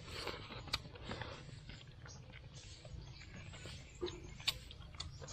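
Eating sounds: chewing and lip smacking on mouthfuls of mushrooms and rice, with small irregular clicks, a few sharper ones about a second in and near the end.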